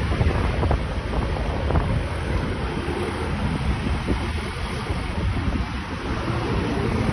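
Heavy wind buffeting on the microphone: loud, gusting rumble with no clear engine note under it.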